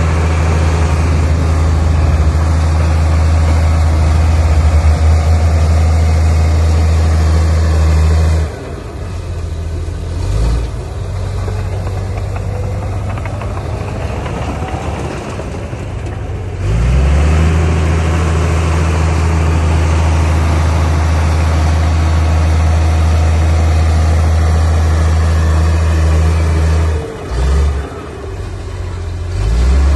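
Heavy diesel engine of earthmoving machinery running hard with a steady low drone. About eight seconds in it eases off for several seconds, with short rev swells, then pulls back up to full load, and it dips briefly twice near the end.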